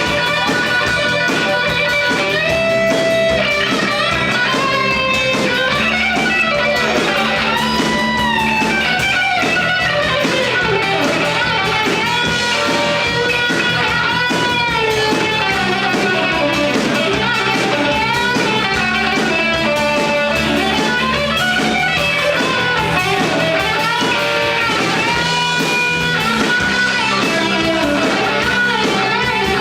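Rock band music, an instrumental stretch led by electric guitar with notes bending up and down over a steady band backing.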